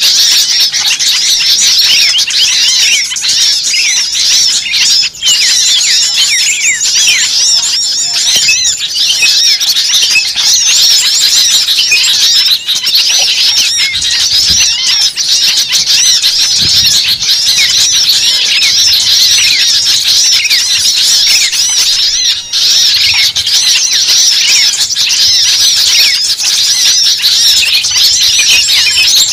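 A dense chorus of many overlapping high-pitched chirps and squeaks without pause, typical of a large flock of small birds calling at once.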